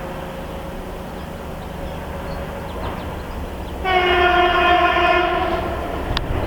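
VL15 electric locomotive with a freight train: a steady low rumble, then about four seconds in one horn blast of under two seconds on a single steady pitch. A short sharp click follows near the end.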